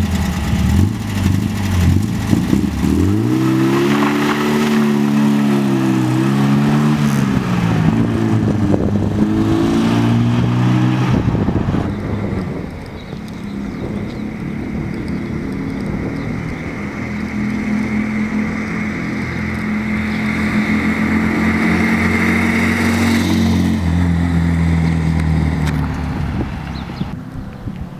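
1980 VW Gol's air-cooled flat-four engine pulling away and revving up through the gears, its pitch rising and falling several times with the shifts. It has a deep rumble from an exhaust whose intermediate muffler has rusted through and burst open. About twelve seconds in it turns fainter and steadier as the car drives off.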